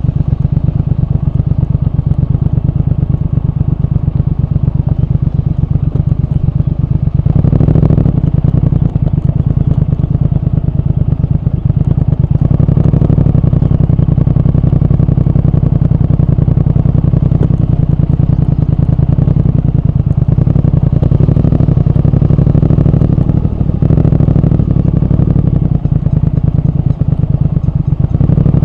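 Triumph Speed Twin 1200's parallel-twin engine and exhaust running under way, a steady, even beat of firing pulses. A short rush of noise comes about seven and a half seconds in.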